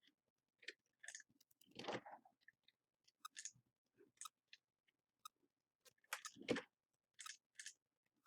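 Near silence broken by scattered faint clicks and small handling noises, a little louder about two seconds in and again about six seconds in.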